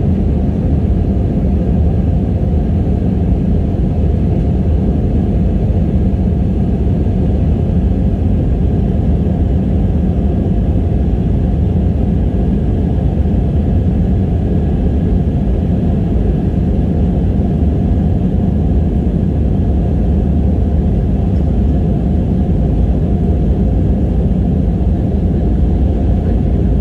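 Airbus A321-211 cabin noise in flight: the CFM56 jet engines and airflow make a loud, steady rumble with a faint steady whine above it, as the airliner climbs after takeoff.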